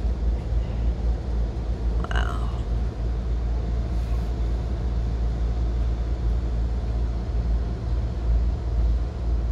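Steady low rumble and running noise of a moving passenger train, heard from inside the coach.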